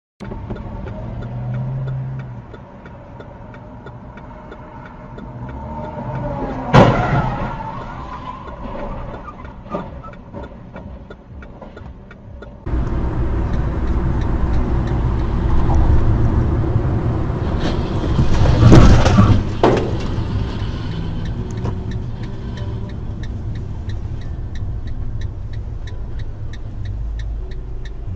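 Car driving noise with a sudden loud crash impact about seven seconds in. The background noise changes abruptly near halfway, and a second loud crash comes around nineteen seconds.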